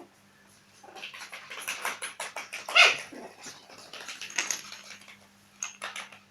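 Puppies playing: a run of short scuffling sounds and small yips, with one louder yip about halfway through.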